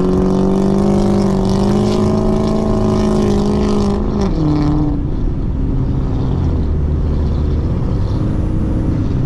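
Car engine held at steady high revs under acceleration after a rising pull. About four seconds in it eases off and drops to a lower, steady running note.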